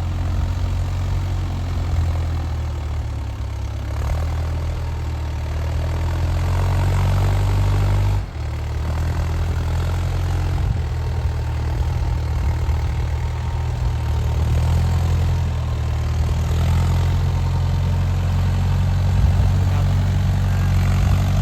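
A tractor's diesel engine running steadily, with one brief sharp drop in the sound about eight seconds in.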